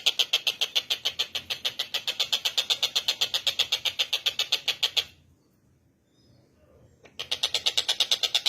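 Tengkek buto giving its rapid, high-pitched chattering call, an even run of about seven notes a second. It breaks off about five seconds in and starts again about two seconds later.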